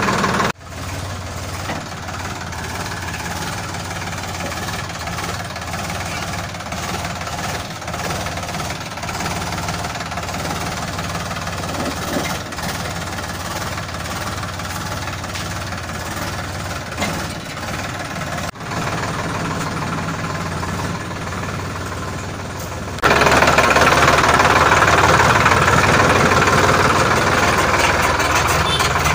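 Sonalika DI 42RX tractor's diesel engine running steadily with a clattering note. It cuts out briefly about half a second in and again past halfway, then runs much louder and harsher for the last six seconds.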